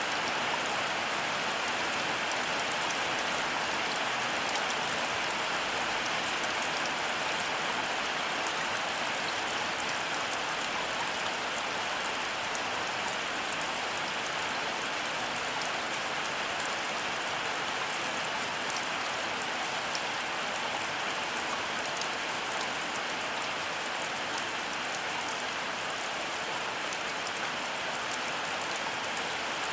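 Heavy rain falling steadily, an even hiss with the tick of individual drops striking surfaces.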